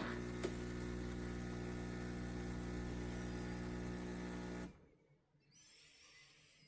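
KitchenAid KES6551 espresso machine's pump humming steadily as it pushes water through the portafilter to brew espresso, stopping abruptly after about four and a half seconds; a faint hiss follows near the end.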